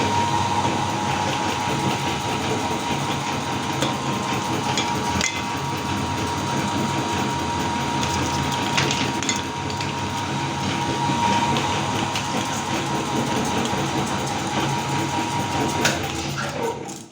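Electric meat grinder running with a steady motor hum, crushing cookies with scattered cracks and crunches; it cuts off near the end.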